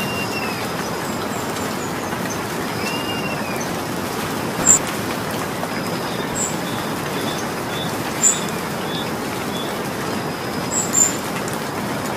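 Steady rain falling, with a few louder, sharp drip-like ticks every couple of seconds and faint bird chirps in the background.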